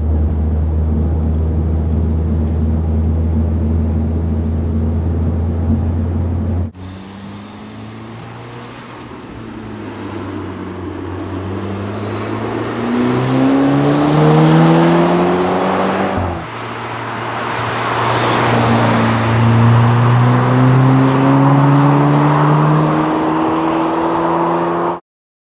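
Audi A5 2.0T turbocharged inline-four engine breathing through an SPM stainless 3-inch turbo-back exhaust. It runs at a steady drone at first, then after an abrupt cut accelerates with its pitch climbing. A gear change drops the pitch about sixteen seconds in, and it climbs again until it cuts off near the end.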